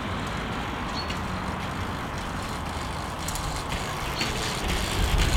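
Steady wind rumble and road noise of riding, growing louder and hissier near the end.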